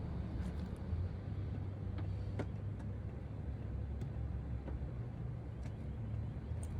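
Steady low rumble heard from inside a car going through a car wash, with a few faint clicks.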